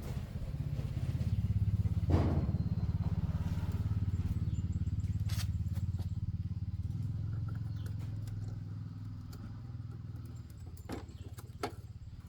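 Tractor engine running with a fast, even pulse, swelling over the first two seconds and slowly easing off later. A sharp knock comes about two seconds in, and there are two light clicks near the end.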